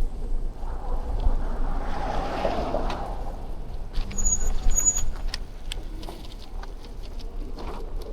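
Street noise from a bicycle ride through a snowy city: a steady low rumble of wind and riding on the action camera, with the swishing swell of a passing vehicle about two seconds in. Two short high beeps sound about four seconds in, and light clicks and taps come throughout.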